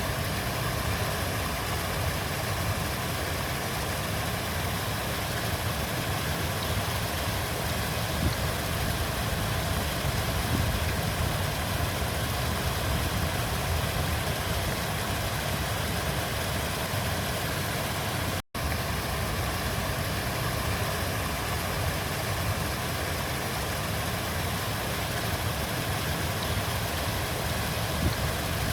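River water flowing, a steady rushing with a deep low rumble. It cuts out for an instant about two-thirds of the way through.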